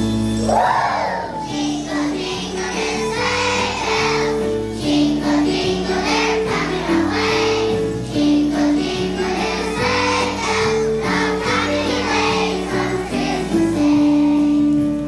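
A group of young children singing a Christmas song together over an instrumental accompaniment, with jingle bells ringing along.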